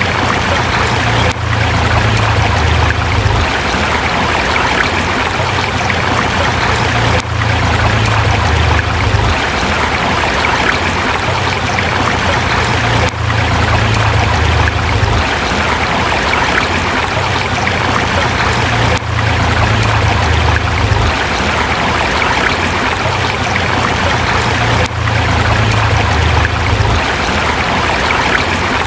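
Forest river flowing over rocks: a steady rush and trickle of water with a low rumble that swells and fades. A brief dip recurs about every six seconds.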